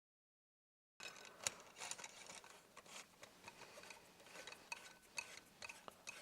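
Faint, irregular small metallic clicks and ticks, starting about a second in: an Allen key working in the heads of the screws that hold the air tank on an Epic ONE air rifle, as the screws are tightened lightly.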